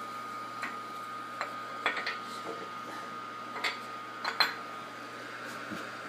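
A handful of light metallic clinks, scattered irregularly, as a steel piston ring and feeler gauge are handled while checking the ring's end gap, over a faint steady hum.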